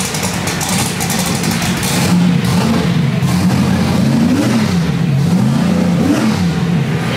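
A drag race car's engine idling, revved up and back down twice, about four and six seconds in.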